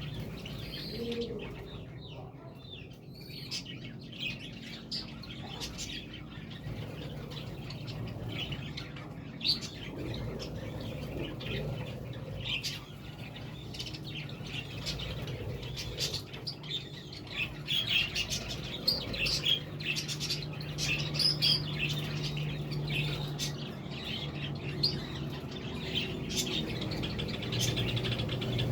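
A flock of budgerigars (budgies) chirping and chattering in quick, short calls that grow busier past the middle.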